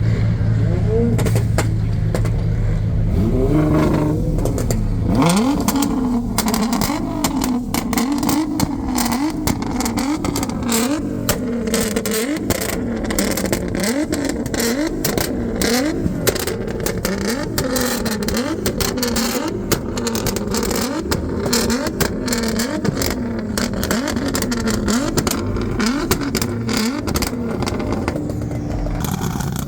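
A car engine idles, then from about five seconds in it is revved over and over, its pitch climbing and dropping every second or two, with many sharp crackles throughout.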